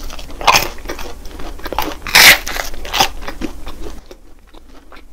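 Crisp bites and crunching chews of a cheese croffle, a crispy croissant waffle, close to the microphone. Several sharp crunches, the loudest a little over two seconds in, giving way to quieter chewing near the end.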